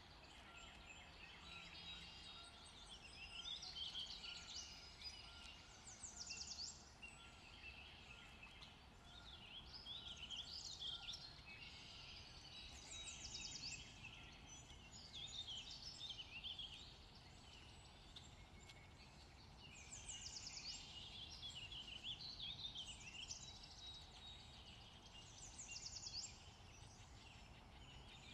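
Faint birdsong: several birds chirping and trilling on and off, in short bursts every few seconds.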